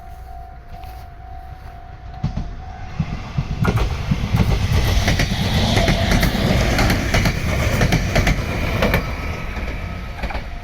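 Meitetsu electric train passing close by, a loud rumble rising and then easing off, with many sharp clicks of the wheels over rail joints. A level-crossing warning bell rings steadily until the approaching train drowns it out about two seconds in.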